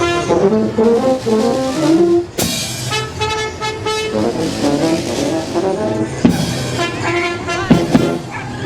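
Brass-led music, trombone- and trumpet-like horns playing a run of held notes.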